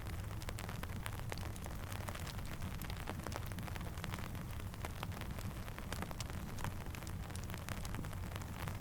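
Steady rain falling, mixed with a crackling campfire: many small sharp ticks and pops over an even hiss and a low, steady rumble.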